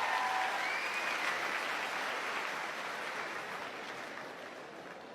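Theatre audience applauding, the applause dying away, with a brief whistle about a second in.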